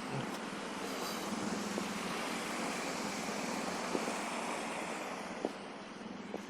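A steady rushing hiss, typical of vehicle tyres on a wet, snow-covered street, that fades away about five seconds in.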